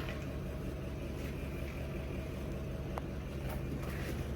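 A steady low mechanical hum, which one of the explorers guessed might be a generator, with a few faint sharp clicks over it.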